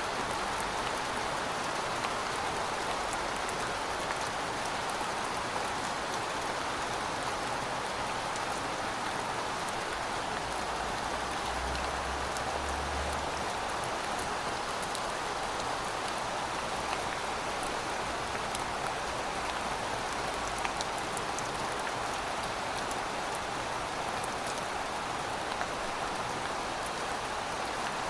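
Heavy rain falling steadily: a dense, even hiss of rain with many small drop ticks. There is a faint low rumble underneath through the first two-thirds, strongest about twelve seconds in.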